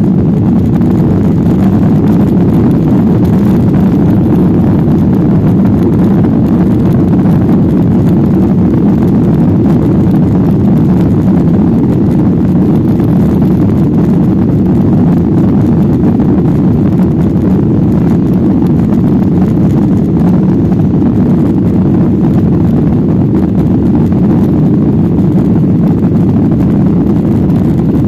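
Boeing 737-800 cabin noise with its CFM56-7B turbofan engines at high thrust: a loud, steady low rumble, typical of the takeoff roll and initial climb.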